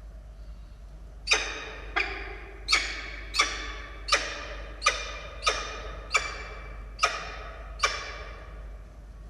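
Peregrine falcon calling: a run of about ten harsh, sharp-edged calls in quick succession, roughly one every two-thirds of a second, starting about a second in.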